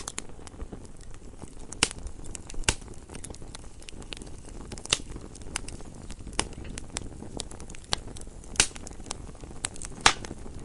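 Campfire crackling and popping: a steady low rumble of burning wood with irregular sharp pops, several louder snaps scattered through.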